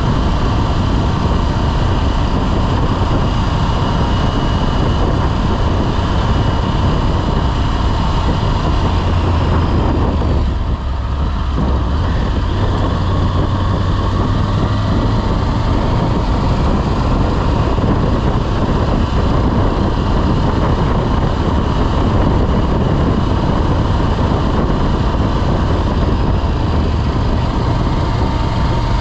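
Motorcycle engine running at a steady speed while riding, under heavy wind noise on the microphone. The wind noise briefly drops about eleven seconds in.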